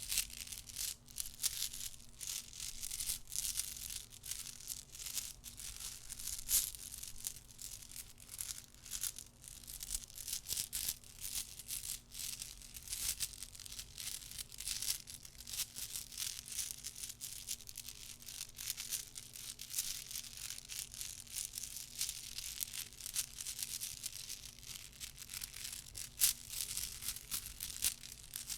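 ASMR trigger object handled close to the microphone, giving a dense, unbroken run of soft, rapid clicks and crackles.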